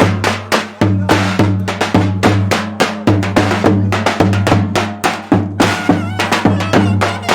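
Turkish folk dance tune (oyun havası) led by a drum beating steady, heavy strokes about three a second. A high, wavering wind melody joins in near the end.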